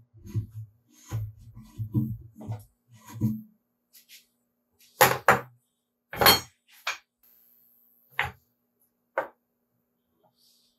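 Cut wooden pieces being handled and set down, knocking against each other and the bench: a run of soft low thumps, then six sharp, separate clacks.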